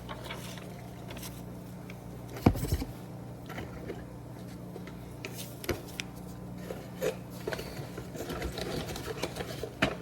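Scattered light taps, clicks and scrapes of the volcano-experiment things being handled, with one loud knock about two and a half seconds in, over a steady low hum.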